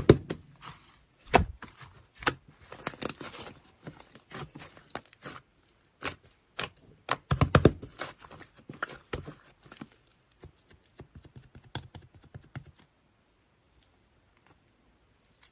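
Slime being squeezed and stretched by hand, giving irregular sticky clicks and crackles that thin out and stop about thirteen seconds in.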